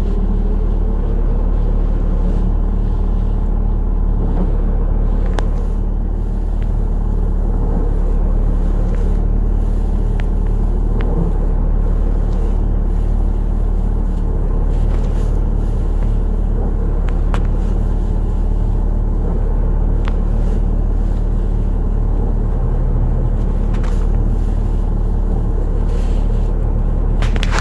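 Isuzu Hombre pickup's engine running steadily with the transmission in neutral: an even low drone with a few faint clicks.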